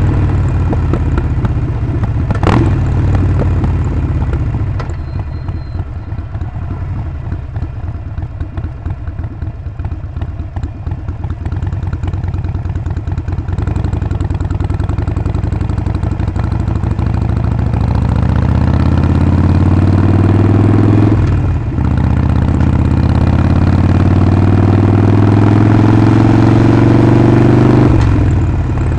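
Harley-Davidson Sportster 48's air-cooled 1200 V-twin running under way, low and lumpy at first, then pulling up through the revs. The rise is broken by a brief drop at each of two gear changes, one past the middle and one near the end. A single sharp click comes about two and a half seconds in.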